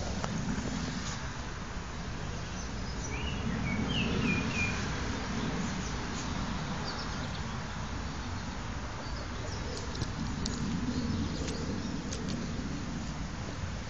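A small bird chirping a few short rising notes about three to four seconds in. Beneath it runs a steady low rumble, with spells of a pug snuffling close by as it noses along the ground.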